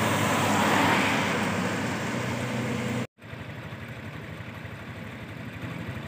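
Truck running, a steady rushing engine-and-road noise. It cuts off suddenly about three seconds in and comes back as a quieter steady running sound.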